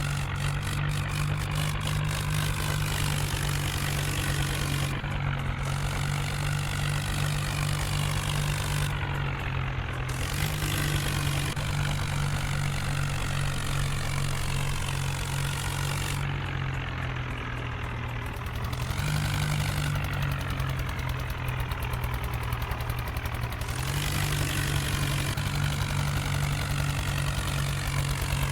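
New Holland 4x4 tractor's diesel engine running steadily, its pitch shifting slightly a few times.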